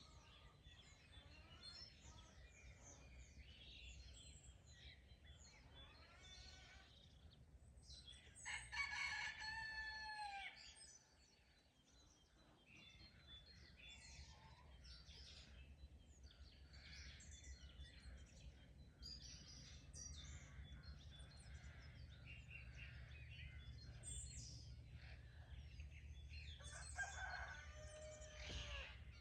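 Rooster crowing twice, about nine seconds in and again near the end, each crow ending in a falling tone. Small songbirds chirp throughout over a faint steady low rumble.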